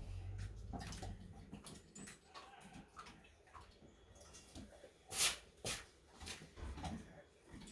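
Pet bird giving short squawks at intervals, the loudest two close together about five seconds in.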